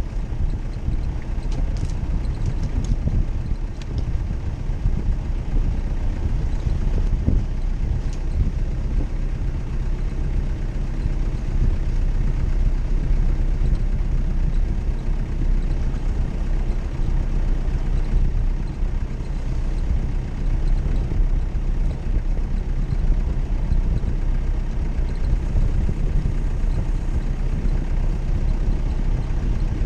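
Jeep Cherokee engine running steadily at low revs, a low, even engine note with no clear revving.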